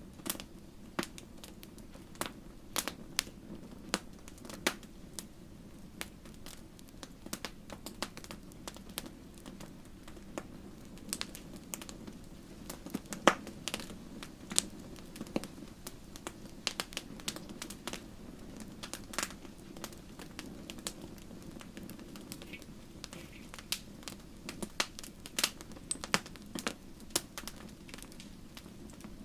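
Wood fire crackling in a fireplace: irregular sharp pops and snaps over a low steady rumble of the flames, with one louder pop about halfway through.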